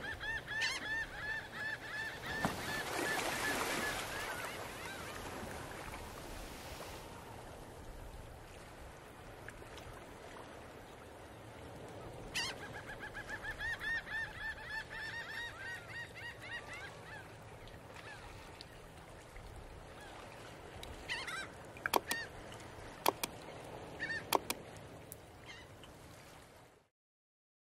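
Bird calls in two quick, evenly repeated runs, one at the start and one about halfway through, with a few sharp clicks near the end.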